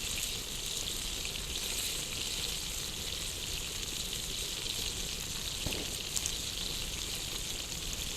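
Steady sizzling hiss of food cooking over an open campfire, with a sharp crackle about six seconds in.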